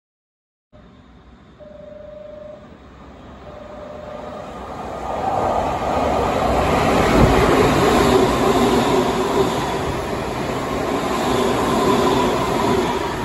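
Two short steady tones, then an electric commuter train pulling into the station along the platform. The rumble of its wheels and running gear builds up and stays loud as the cars go past.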